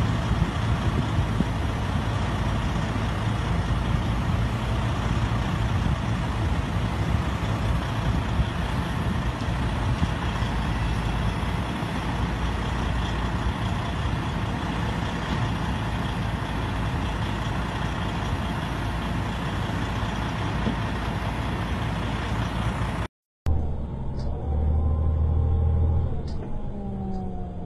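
Steady vehicle and road noise with a low engine rumble. Near the end it cuts off abruptly and gives way to pitched tones that glide up and down.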